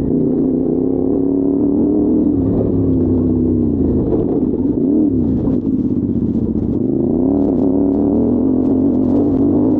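Adventure motorcycle engine running under way, its note dipping and rising again about halfway through and once more near the end as the throttle is rolled off and on. From midway there are light clicks and clatter.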